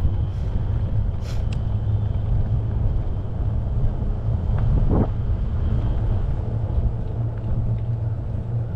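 Steady low rumble of wind buffeting the microphone while riding a bicycle along a trail in a good breeze.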